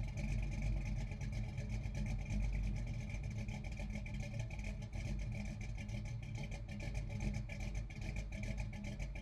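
Car engine running steadily, with a rapid pulsing rattle over a strong low note.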